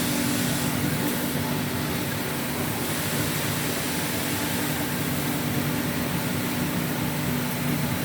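Woodworking CNC router machinery running steadily: a constant hum with an even hiss, unchanging in pitch.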